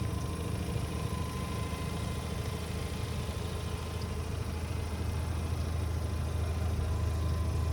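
1994 Mazda RX-7 FD's twin-rotor rotary engine idling steadily at operating temperature, a low even drone.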